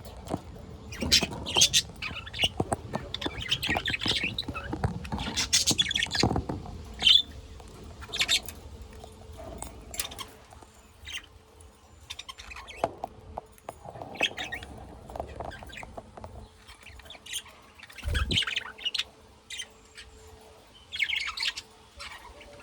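Pet budgies and lovebirds chirping in short, irregular calls, busiest in the first several seconds and sparser after. A dull thump about eighteen seconds in.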